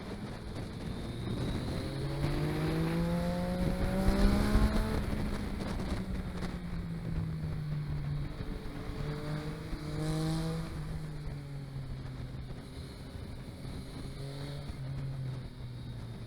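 Vehicle engine accelerating and easing off while driving. Its pitch climbs to the loudest point about four seconds in, drops back, and rises again briefly around ten seconds. The audio track is damaged.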